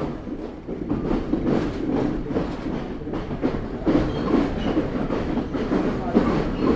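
Sri Lanka Railways Class S9 diesel multiple unit running along the track, a steady rumble with its wheels clicking over rail joints, heard from a carriage window.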